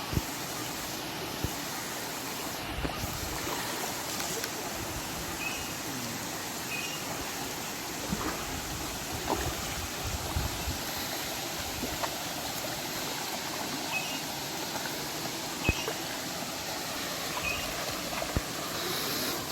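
Steady rush of water flowing over rocks in a waterfall stream, with a few faint clicks.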